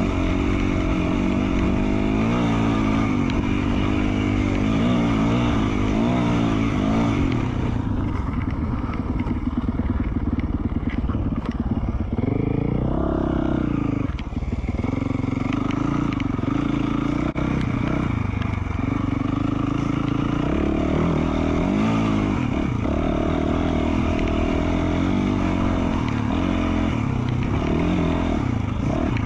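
2020 Yamaha YZ450F's 450cc single-cylinder four-stroke engine with an FMF Q4 slip-on muffler, running under way on a trail ride, its pitch rising and falling with the throttle. The throttle eases off briefly about halfway through.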